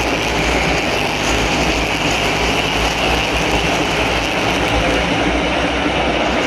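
A pack of NASCAR stock cars running laps around the short track, their V8 engines a continuous loud din without a break.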